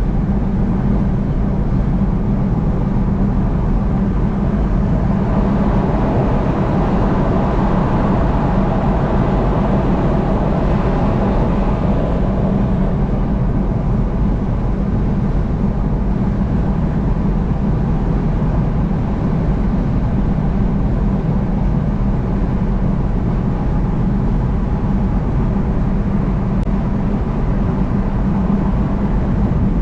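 Steady road and engine noise of a vehicle driving on a highway. The middle of the sound swells a little for several seconds, about a fifth of the way in.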